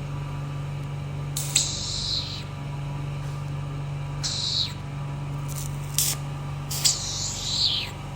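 Vacuum RF beauty machine's suction handle hissing in three short bursts of air, each opening with a click, over a steady machine hum.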